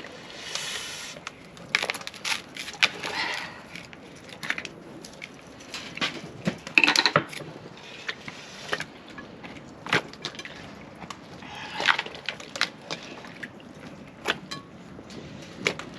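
Irregular sharp cracks and knocks, a dozen or more scattered through at no steady rhythm, the loudest about seven and twelve seconds in, over a faint steady hiss.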